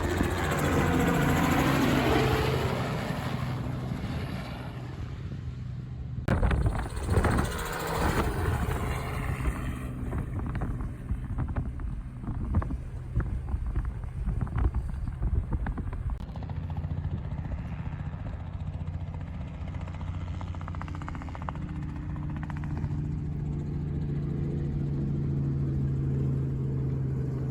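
Crop-spraying helicopter flying over a field, its rotor and engine giving a steady drone that sweeps in pitch as it passes close in the first few seconds. Wind buffets the microphone at times in the middle.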